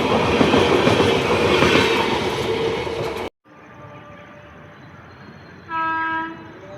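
A train passes close by, its wheels rattling over the rail joints with a dense rumble that cuts off abruptly a little past three seconds in. Over a much quieter train rumble, a locomotive horn then sounds once, a short single-pitched blast of about half a second, near the end.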